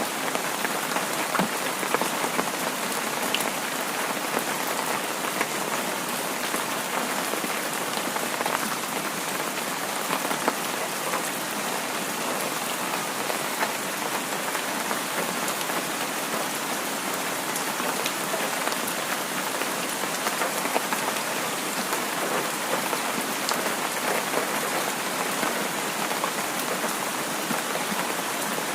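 Heavy rain falling steadily: a dense, even hiss dotted with scattered drop ticks.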